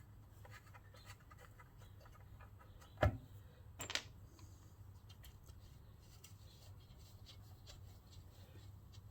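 Quiet workbench handling: faint scratches and small clicks of small engine parts and hardware being picked up and moved, with two sharper knocks about three and four seconds in.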